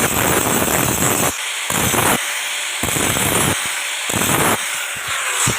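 A metalworking tool working steel in about four separate passes or strokes, each lasting half a second to a second, with short pauses between them.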